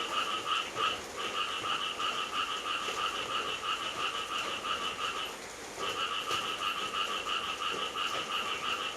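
Frogs calling in a continuous fast pulsing trill, breaking off briefly about a second in and again a little past five seconds, over a steady hiss of night rain.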